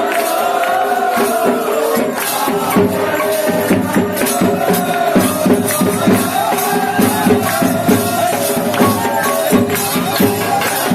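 Devotional aarti music: voices singing a wavering chant-like melody, joined about two seconds in by a steady rhythm of percussion strokes.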